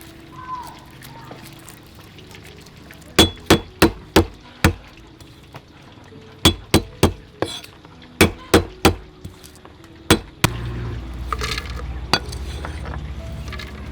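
Sharp, hard knocks in quick runs of three to five, from kitchen food preparation. About ten seconds in they give way to a steady low rumble with a faint trickle.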